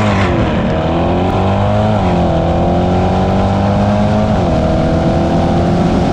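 C8 Corvette V8 at full throttle on a drag run, pulling through the gears. The pitch drops at each of three quick upshifts about two seconds apart and climbs again between them, then cuts off suddenly.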